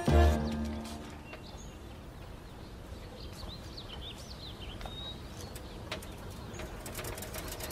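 Music fades out in the first second, leaving quiet outdoor ambience in which birds chirp, a cluster of short high chirps in the middle.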